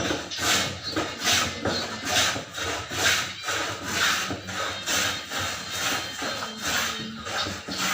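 Steady back-and-forth scraping strokes, like hand sawing or rubbing, about two to two and a half a second.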